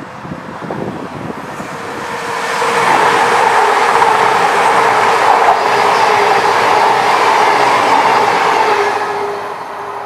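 CrossCountry Voyager diesel multiple unit passing close by. Its engine and wheel-on-rail noise build over a couple of seconds, stay loud for about six seconds, then fade as it moves away. A steady tone drops slightly in pitch as it goes.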